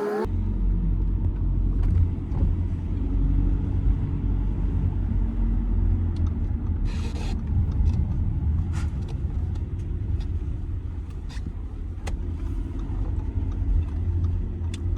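Audi A6 C6 2.0 TDI four-cylinder diesel car on the move, a steady low rumble of road and engine noise with a faint engine drone. A short hiss comes about seven seconds in, with a few light clicks.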